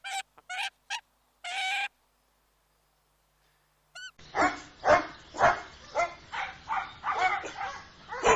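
A few short honking calls of farm fowl, then a pause, then a dog barking and yapping in a quick series, about two barks a second.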